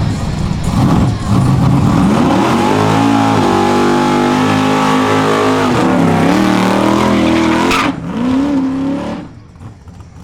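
Car engine held at high revs for a burnout, over the hiss of spinning tyres. The revs climb about two seconds in and hold with a couple of dips, then drop near eight seconds. After one short blip the sound dies away.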